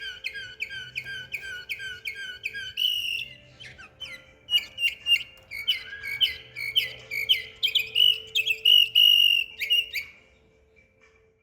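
Canary singing: a fast run of evenly repeated notes, about six a second, then varied whistled trills and chirps. The song stops about ten seconds in.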